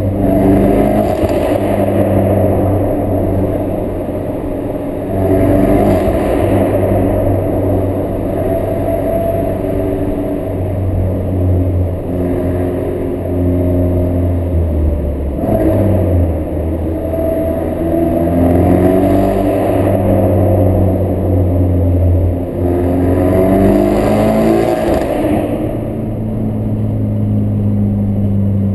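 Ford Focus RS mk3's turbocharged 2.3-litre four-cylinder engine through a Milltek Sport non-resonated, decat exhaust, accelerating hard several times, its pitch climbing and then dropping at each gear change or lift.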